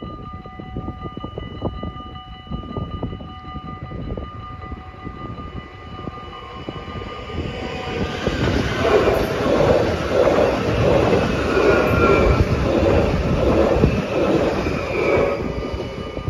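Railroad crossing bells ringing steadily. From about eight seconds in, a Stadler FLIRT train passes and its running noise swells over the bells, loudest for about six seconds, then fades with the bells audible again near the end.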